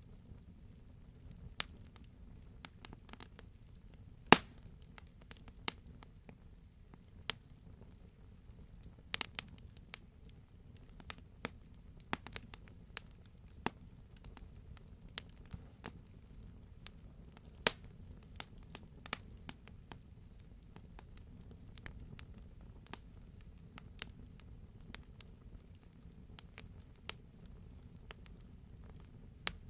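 Wood fire crackling: irregular sharp pops and snaps of varying loudness, a few every second, the loudest about four seconds in, over a low steady rumble of the burning logs.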